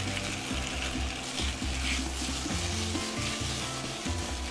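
Chicken breast, onion and lettuce sizzling in a frying pan as they are stir-fried and turned with chopsticks, with background music carrying low notes underneath.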